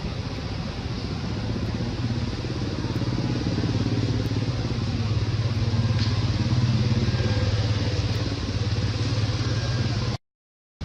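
A motor vehicle engine running steadily with a low hum, a little louder through the middle, then the sound cuts out abruptly for a moment near the end.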